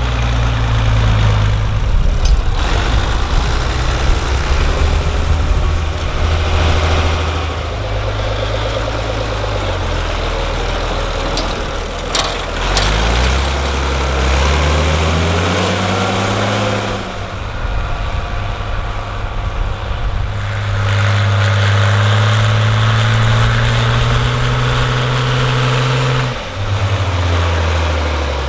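Farm tractor engines running loud and low, the engine tone changing abruptly a few times. Roughly midway the engine speed climbs as it revs up.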